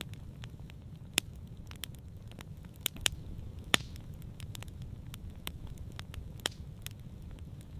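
Wood campfire crackling, with irregular sharp pops, a few much louder than the rest, over a low steady rumble.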